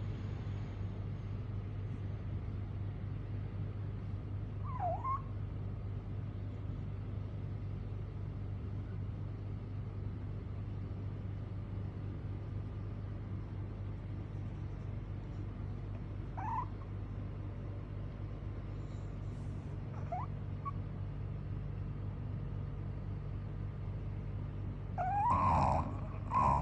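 Bulldog snoring: a steady low rumble, broken by a few brief high squeaky whimpers, with a louder, longer run of them near the end.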